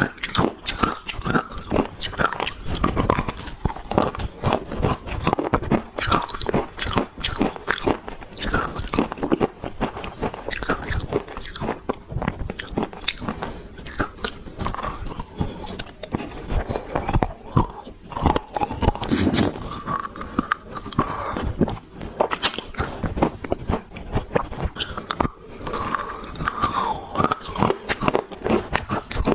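Dry clay being bitten and chewed: a dense, continuous run of sharp crunches and crackles.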